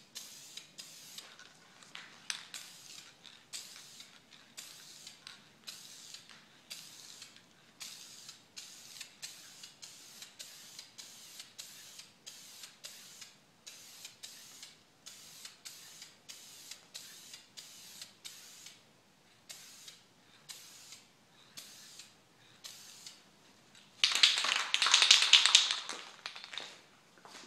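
Aerosol spray-paint can hissing in many short bursts, about two a second, then one louder, longer spray of about two seconds near the end.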